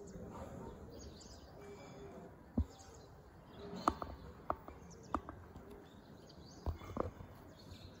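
Faint outdoor ambience with small birds chirping now and then, broken by several sharp taps or knocks from about two and a half seconds in.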